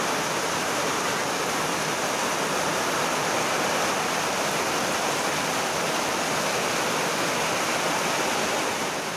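Heavy downpour: a dense, steady rush of rain that begins to fade out near the end.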